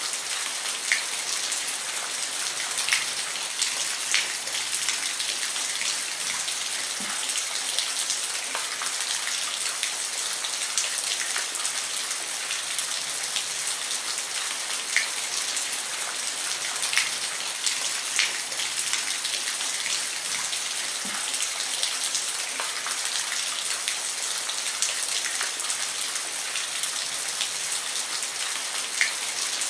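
Steady rain falling on a roof, a dense hiss with scattered sharper drop ticks.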